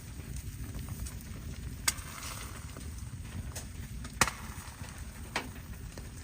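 A few sharp, separate cracks or knocks, the loudest about two seconds in and about four seconds in, over a steady low rumble.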